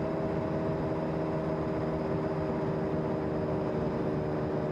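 Steady running noise of a vehicle cruising on the road: an even engine hum with several constant tones over road and wind noise.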